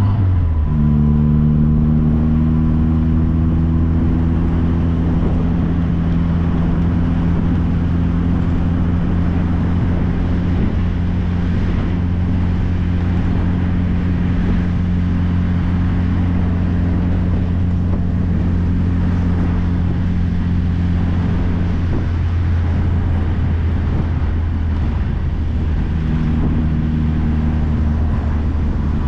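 MG Midget's four-cylinder engine running steadily at cruising speed, heard from inside the open-top car over wind and road noise. The engine note drops back for a few seconds about two-thirds of the way through and comes up again near the end.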